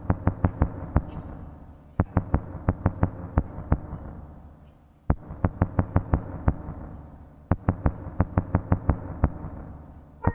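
Runs of sharp clicks, about four to five a second, broken by short pauses, over a low hum, forming the rhythmic intro of the recording just before the guitar comes in.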